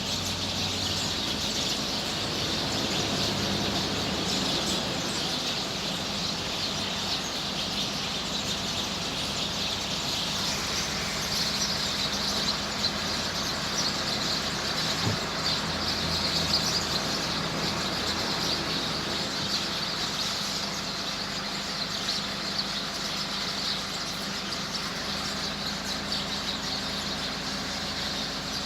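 A large flock of small birds settling into a roost tree at dusk, many calling at once in a dense, continuous twittering chorus, with a steady hum of traffic underneath.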